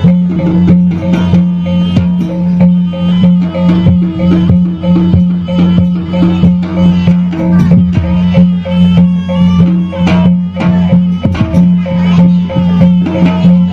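Traditional Javanese jaranan (kuda lumping) ensemble playing live: hand drums and struck percussion in a quick, busy rhythm over a steady low held tone.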